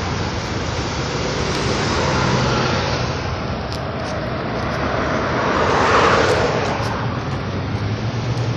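Road traffic noise: a steady wash of passing cars with a low engine hum underneath. One vehicle goes by loudest, swelling up and fading away about six seconds in.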